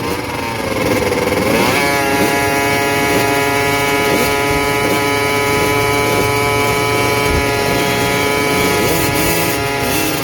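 Motocross dirt bike engines revving: a rising and falling rev, then one engine held at a steady high pitch for most of the rest, with other bikes' engines wavering more faintly beneath it.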